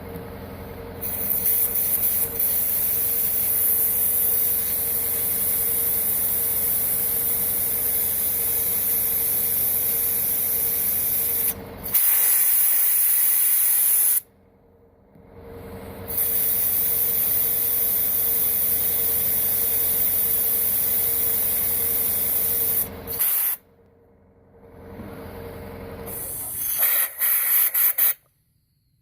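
A blower blasting air in long hissing bursts over a steady motor hum, cut off twice for a couple of seconds and ending in a few short blasts. It is blowing the water out of washed EVAP charcoal canister parts and pushing air through the valve.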